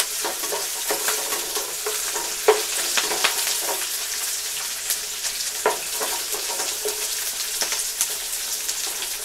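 Chopped onions, garlic and green chilli sizzling as they fry in oil in a nonstick frying pan. A wooden spatula stirs them, making scattered taps and scrapes against the pan.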